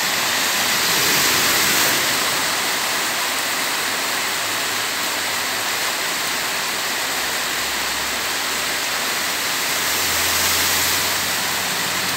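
Heavy rain falling in a steady rush onto a paved street, with cars driving through the water on the road: a tyre swish swells about a second in as one car passes, and another car's swish and low engine hum build near the end.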